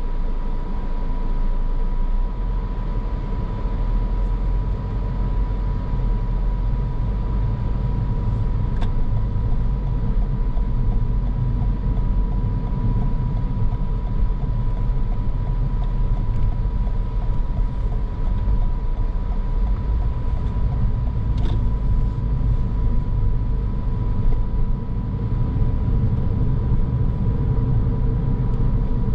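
A car driving: steady low road and engine rumble with tyre noise and a thin steady whine above it, with a couple of faint clicks.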